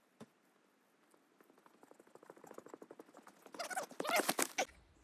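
Quick, light footsteps on the ground that grow louder, then a few louder crunching steps about three and a half seconds in.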